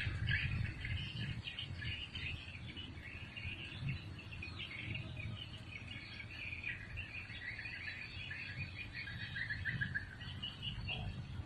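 Birds chirping and twittering continuously, fairly quietly, over a low steady hum.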